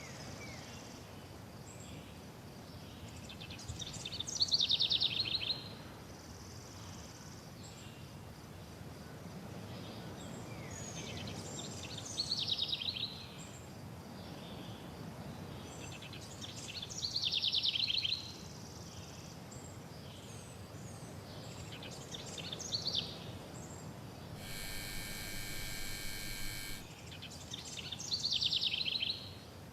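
Songbird singing short trilled phrases every few seconds over a steady low rumble, part of a recorded nature soundscape. Near the end a buzzing tone sounds for about two seconds.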